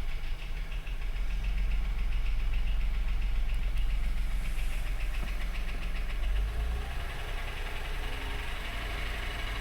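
2003 Acura MDX's 3.5-litre V6 idling with a knock and a fast, even ticking. The local dealership thought the knock was a bad wrist pin or rod bearing; the ticking is from valves that need adjusting.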